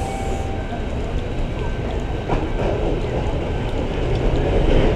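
Sarmiento line commuter train running, a steady rumble that grows a little louder toward the end, with a single sharp click a little over two seconds in.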